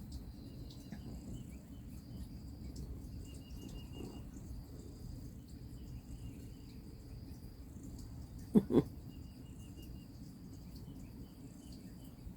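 Insects trilling, a steady high buzz broken now and then, with short runs of pulsed chirps, over a low background rumble. Two quick knocks about eight and a half seconds in are the loudest sound.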